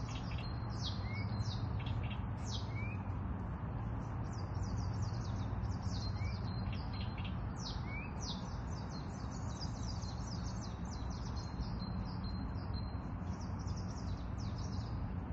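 Several songbirds chirping and twittering in quick high trills, with occasional short rising whistles, over a steady low hum.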